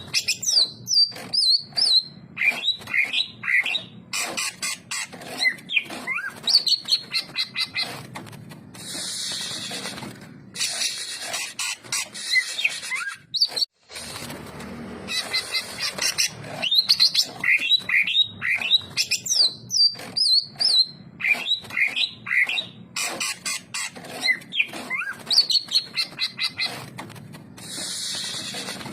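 Cucak ijo (green leafbird) singing continuously: a fast, varied run of sharp chirps and whistled trills, with two stretches of harsh hissing notes, one about a third of the way in and one near the end, and a momentary break near the middle.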